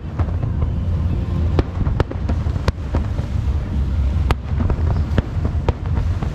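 Aerial fireworks bursting: a string of sharp bangs at irregular intervals, the loudest about four seconds in, over a steady low rumble.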